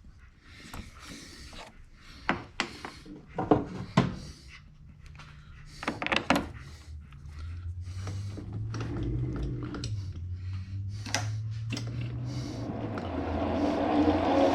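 Several sharp knocks and clicks of metal tools and parts being handled, then a metal lathe's motor starts running about halfway through. Its hum grows steadily louder toward the end as the machine is brought into use to chamfer the part.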